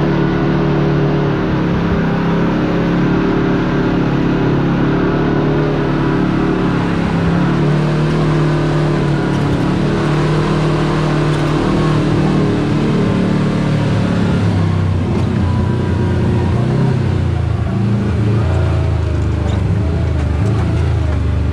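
Side-by-side UTV engine running as it drives along a trail, its pitch rising and falling with the throttle and settling lower in the second half.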